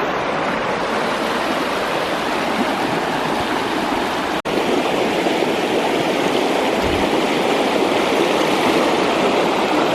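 Fast-running creek, swollen by recent rain, rushing over rocks in a steady loud wash of water. The sound drops out for an instant about four and a half seconds in.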